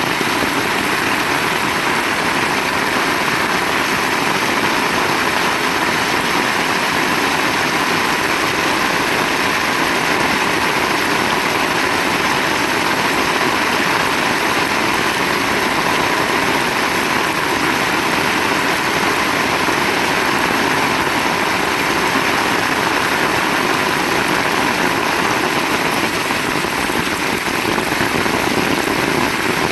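Heavy rain falling steadily: a loud, even hiss that does not let up, with no thunderclap in it.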